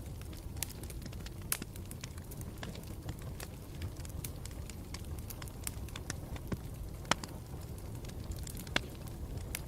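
Campfire burning with a steady low rumble and frequent sharp crackles and pops, a few louder snaps standing out.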